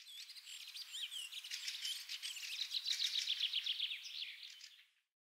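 Birds chirping in a rapid stream of short, high-pitched calls and trills, which stop abruptly near the end.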